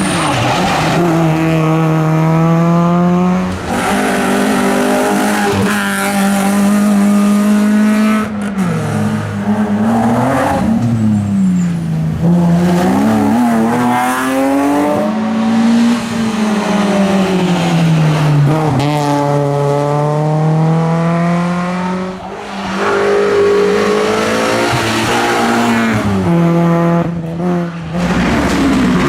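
Rally car engines at full throttle on a stage, the pitch climbing and then falling again and again through gear changes and braking, with brief dips in loudness between passes.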